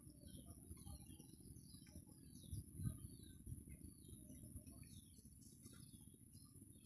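Faint birds chirping in many short, scattered calls over a low background rumble, with a thin steady high-pitched whine.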